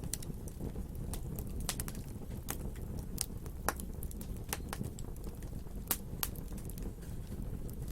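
Wood fire burning: irregular sharp crackles and pops, a few louder ones around the middle, over a low steady rumble of the flames.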